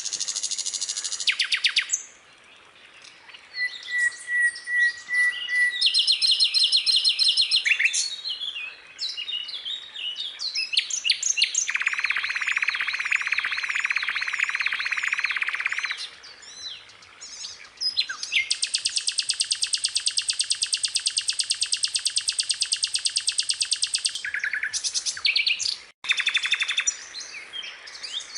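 Skylark singing a long, varied song: fast trills, rapid buzzy rattles and thin whistled phrases, strung together with only short pauses.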